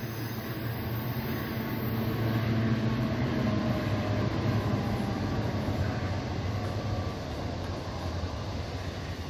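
Saemaeul-ho passenger train running on the track, a steady rumble of wheels on rail with a low hum that swells a few seconds in and then eases off.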